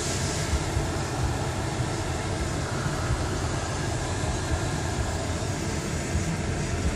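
Automatic car wash running over the car in its soap stage, heard from inside the cabin: a steady rushing spray with a low rumble.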